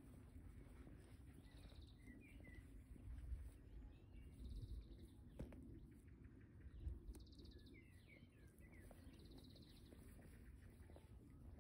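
Songbirds singing: one repeats a short buzzy trill about four times at even intervals, with other birds chirping in between, over a faint low rumble.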